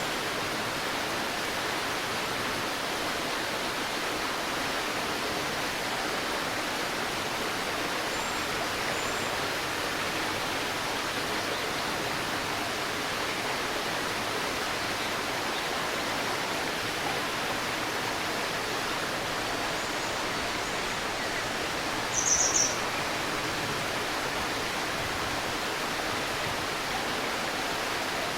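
Shallow river babbling steadily, with a bird's faint high chirps now and then. About three-quarters of the way through, a bird gives a quick run of several high notes, the loudest thing here.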